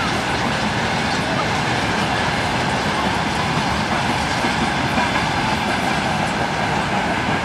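Freight train of open gondola wagons rolling past close by, a steady loud rolling noise of steel wheels on the rails.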